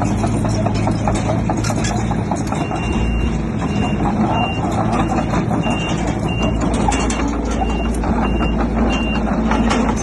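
Heavy diesel construction machinery running, with metallic clanking, and a reversing alarm beeping at an even pace from about two and a half seconds in until near the end.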